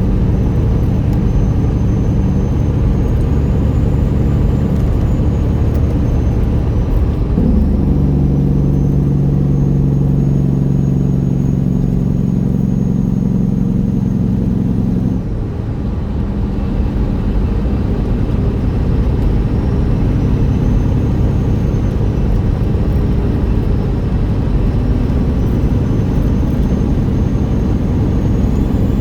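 Straight-piped Detroit Series 60 inline-six diesel of a 1999 Peterbilt 379 running on the highway. About a quarter of the way in the exhaust note turns louder and holds steady for some seven seconds, then drops off briefly around the halfway point before the engine settles back to a steadier drone.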